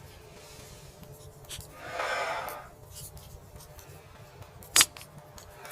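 Faint scraping and rustling handling sounds, with a short swell of rustling about two seconds in and a single sharp click near the end.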